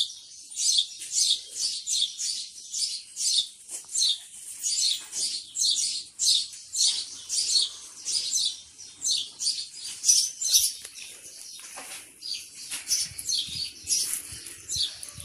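Small birds chirping in a quick, steady series of short high chirps, about three or four a second.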